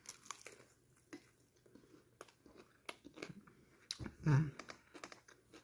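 A person biting and chewing a crisp breaded fried chicken fillet topped with pepperoni, marinara and mozzarella, heard as scattered faint crunchy clicks. About four seconds in comes a brief voice sound from the chewer.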